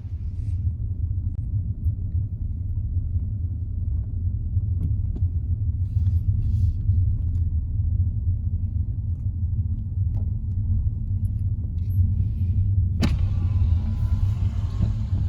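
Steady low rumble with one sharp click near the end.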